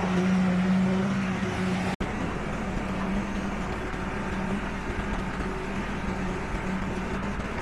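Diesel engines of heavy road-construction machinery running steadily. There is a sudden break about two seconds in, after which a second steady engine sound follows with a lower hum.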